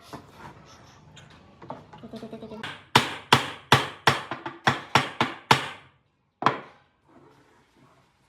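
Hammer blows on wood: a few light taps, then a run of about eight sharp strikes at roughly three a second, and one more after a short pause.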